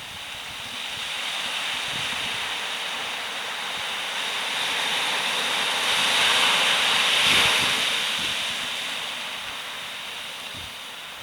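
Heavy post-typhoon swell on the Pacific shore: surf roaring as a big wave builds, breaks loudest about seven seconds in, then washes out and fades.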